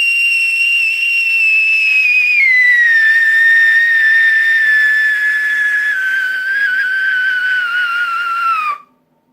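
A loud, high whistle held for about nine seconds, its pitch sinking slowly in a few steps, then cutting off suddenly.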